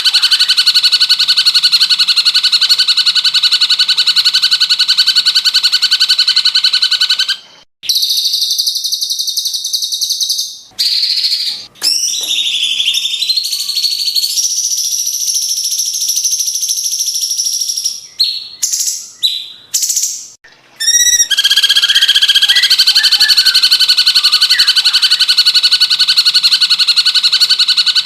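Cucak cungkok calling, recorded for bird-song training: a loud, very fast buzzing trill, broken from about a quarter of the way in by a run of separate whistled phrases with rising and falling glides and short gaps, then the fast trill returns.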